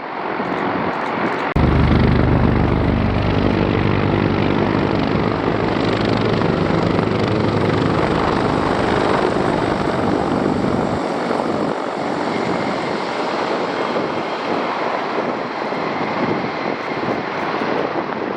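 Aircraft engine noise: a low, steady engine drone that cuts in suddenly about a second and a half in, holds, and fades around eleven seconds, over a constant rushing noise.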